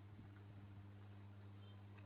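Near silence: a faint, steady low electrical hum with a few faint ticks.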